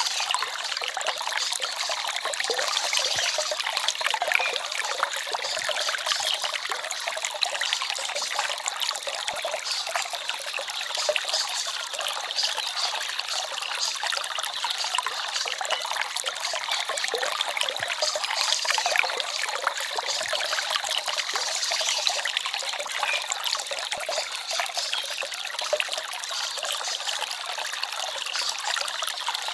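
Small forest stream trickling and babbling over stones, a steady flow with a fine, fluttering texture.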